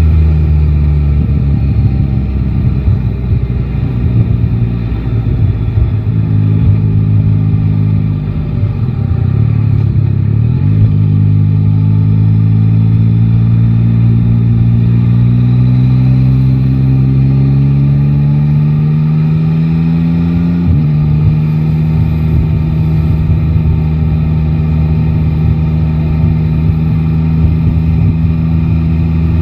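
Yamaha Tracer 9 GT's inline three-cylinder engine running on the road, heard from the rider's seat. About a third of the way in, the engine note rises steadily for some ten seconds as the bike accelerates, then drops suddenly and holds a steady pitch.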